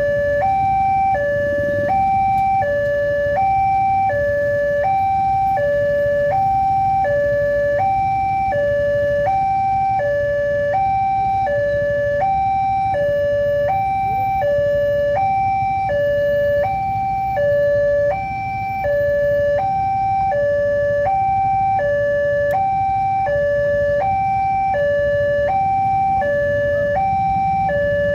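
Railway level-crossing warning alarm sounding continuously, alternating between a lower and a higher tone, each held about half a second, signalling an approaching train. A low rumble runs underneath.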